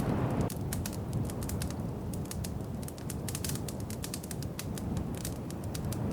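Wood fire crackling in a fireplace: dense, irregular sharp pops and snaps over a low steady rumble of flame. A louder rushing layer drops away about half a second in.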